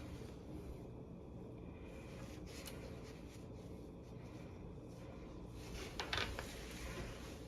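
Small handling sounds of hand work on a broken refrigerator door wire: faint rubbing and scratching over a steady low hum, with a short cluster of clicks and scrapes about six seconds in.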